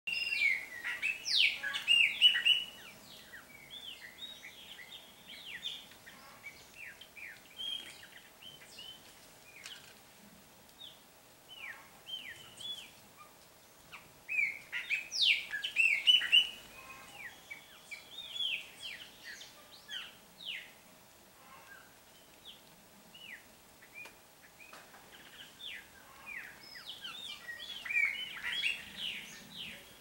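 Many short, sharp bird chirps and calls, bunched in loud flurries at the start, about halfway through and near the end, with scattered chirps between.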